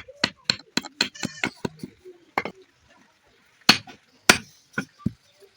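Hammer blows on iron: a quick even run of about four strikes a second, then after a pause a few slower single blows, some with a short metallic ring.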